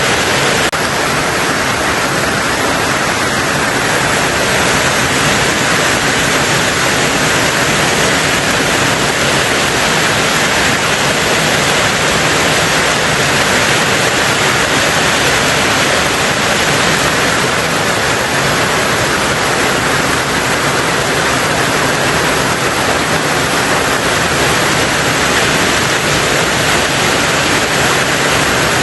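Heavy rain on a tin roof, a steady dense hiss with no single drops standing out.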